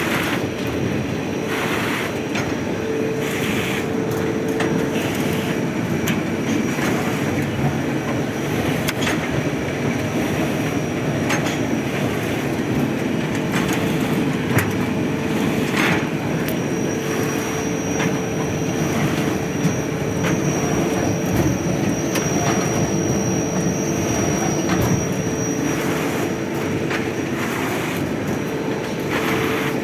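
Plastic sewing machine with a servo-motor feed running continuously, a dense mechanical clatter over a steady hum, with scattered sharp clicks and a thin high whine through the middle.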